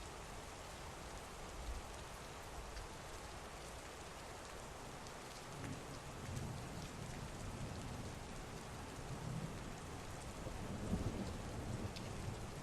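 Heavy rain falling steadily, with a low rumble of thunder rolling in about halfway through and growing louder toward the end.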